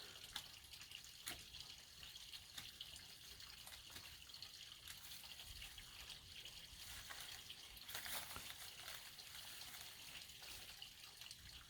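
Faint, steady trickle of running water from a small pond waterfall, with a few soft ticks.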